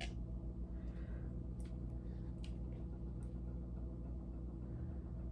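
Steady low electrical hum with a few faint, brief clicks about one and a half to three seconds in.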